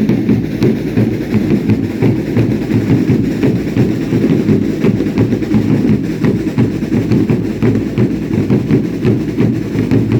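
Baile indio dance drums beaten continuously with many quick strokes, a dense, steady pounding.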